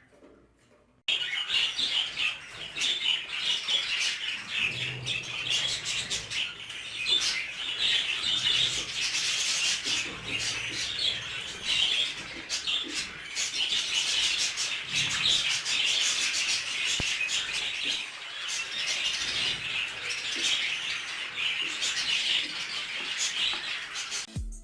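A flock of budgerigars chattering, with dense overlapping chirps and warbles that start about a second in and run on without a break.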